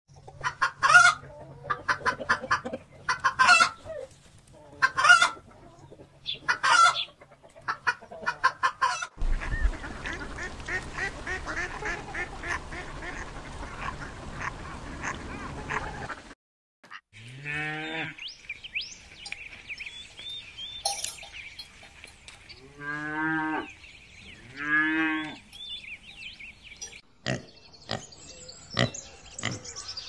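Farmyard poultry sound effects: chickens clucking in short repeated bursts, then a busy stretch of many birds calling at once. After that a goose honks three times, each honk falling in pitch, over a steady high chirping, and a few sharp clicks follow near the end.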